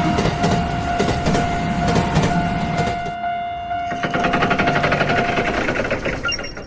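Train sound effect: a held horn tone over a rumbling clatter. About four seconds in it turns into a fast, even rattle of wheels on rail, and near the end it fades as the train passes.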